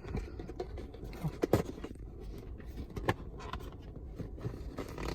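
Takeout food containers and packaging being handled and opened: a few scattered light knocks and clicks with some scraping, the sharpest about a second and a half in, over a steady low hum.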